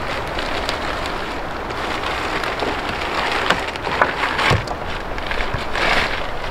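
Fat sizzling and crackling in a pan over a campfire: a steady hiss with scattered pops, a few louder ones in the second half.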